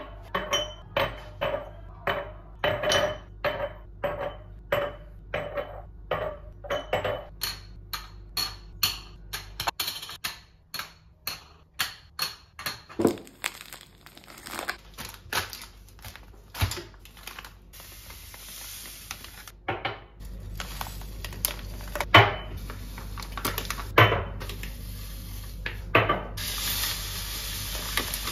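Dishes and utensils clinking and knocking: quick, lightly ringing strikes about twice a second at first, then fewer, sharper knocks in the second half.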